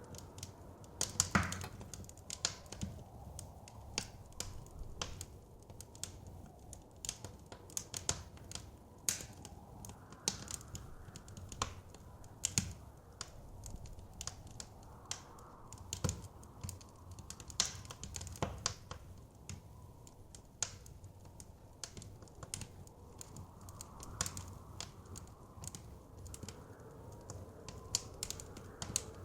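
Wood fire crackling with irregular sharp pops, several a second, over a low steady rush of blizzard wind that swells now and then.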